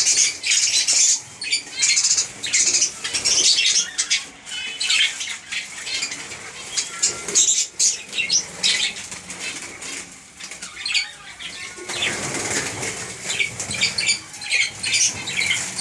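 Caged birds flapping their wings in repeated short flurries, mixed with high chirps and chatter.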